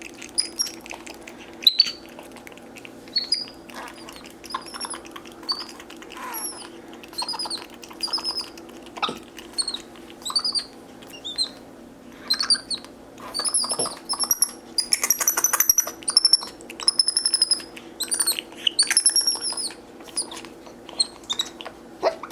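Capuchin monkeys chirping: many short, high-pitched squeaky calls that rise and fall, coming in quick runs, over a steady low hum.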